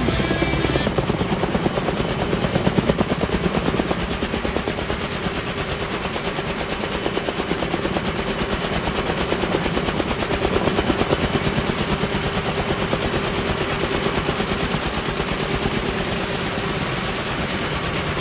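Logging helicopter's rotor beating rapidly and steadily.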